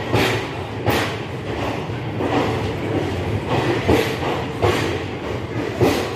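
Passenger train coaches rolling past on the track, a steady rumble with a sharp clack of wheels over rail joints about once a second.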